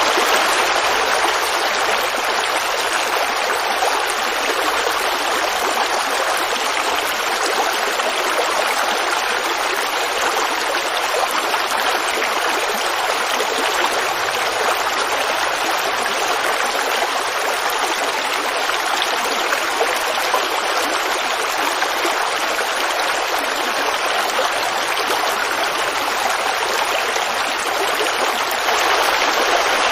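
A creek babbling steadily: an even, unbroken rush of running water.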